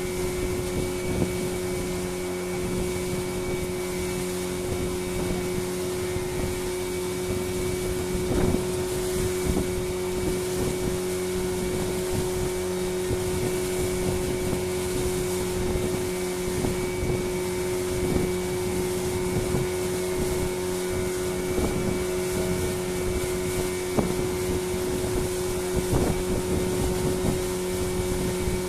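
A small fishing boat's engine running at a steady pitch and speed under way, with a few brief thumps now and then.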